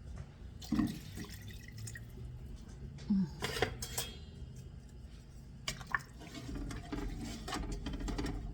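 Knocks and clatter of a utensil against a pot of liquid, with water splashing and dripping. A few sharp knocks stand out, and a busier stretch of clatter comes near the end.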